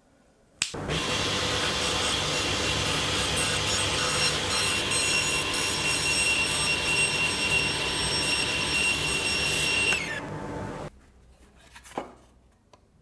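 Electric power tool switched on with a click, its motor running with a steady high whine for about ten seconds, then cut off abruptly; a single click follows near the end.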